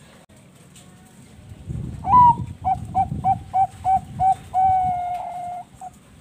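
Zebra dove (Thai-bred perkutut) singing one song phrase about two seconds in: a higher opening coo, a quick run of short coos, then a long held coo.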